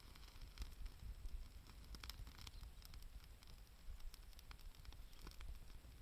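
Campfire crackling faintly, with scattered sharp pops over a low rumble.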